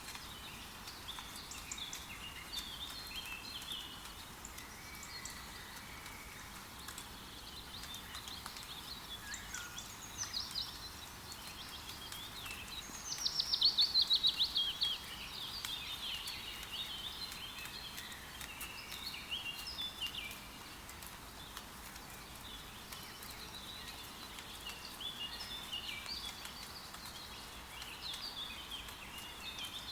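Several songbirds calling and singing over a steady hiss of rain. About halfway through, one bird gives a loud, fast trill of rapid notes falling in pitch.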